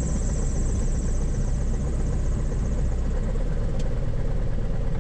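Lycoming O-360 four-cylinder engine of a Grumman AA-5B Tiger running steadily at low power after landing, heard from inside the cabin. A brief click sounds about four seconds in.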